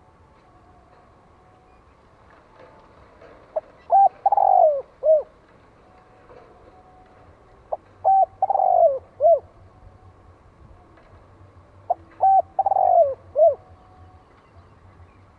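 Spotted dove cooing: three call phrases about four seconds apart, each a few short coos with a longer falling note in the middle.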